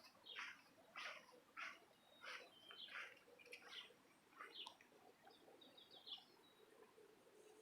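Faint bird chirping: a run of short, sharp chirps about one and a half a second over the first few seconds, then softer, higher twittering.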